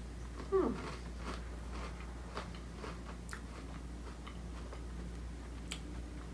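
Mouth noises of someone chewing a crunchy sandwich cookie (an Apple Cider Donut Oreo), with faint clicks and crunches every half-second or so. About half a second in there is a short vocal sound falling in pitch, the loudest thing heard.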